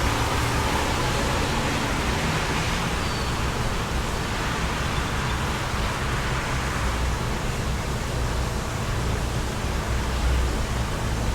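Wind blowing steadily through a suburban neighbourhood, rumbling on the microphone, with a hiss that swells and eases. A brief high chirp comes about three seconds in.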